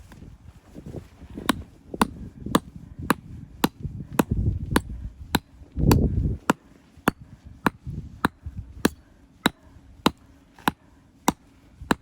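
Camping axe chopping into a firewood log in quick repeated strokes, about two sharp cracks a second. There are a few heavier, duller thuds a third and halfway through.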